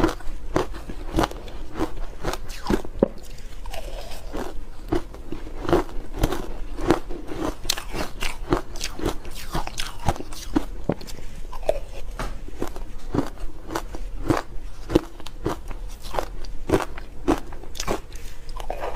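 Ice being bitten and chewed close to the microphone: a steady run of sharp, crisp crunches.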